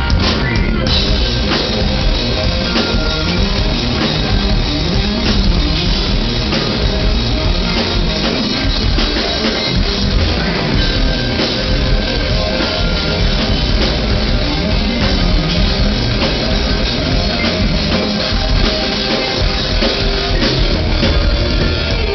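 Live rock band playing an instrumental intro: drum kit, electric guitars and bass, loud and dense, without vocals.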